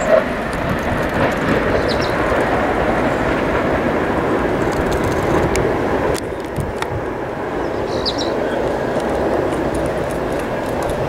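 Amtrak Acela high-speed electric train running along the track as it draws away, a steady rushing noise with scattered faint clicks. The level dips slightly about six seconds in.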